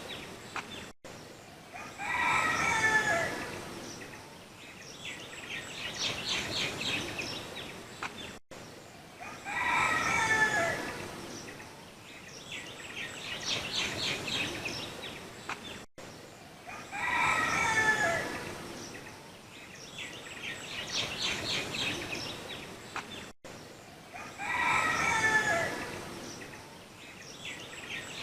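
Bird calls: a short falling call with several pitched layers, then a run of rapid chirps. The same few seconds of recording repeat about every seven and a half seconds, four times, each joined by a brief dropout.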